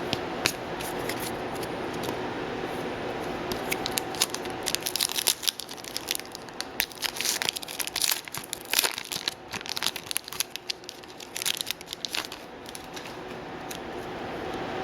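Trading-card pack wrapper being torn open and crinkled, with a dense run of sharp crackles through the middle.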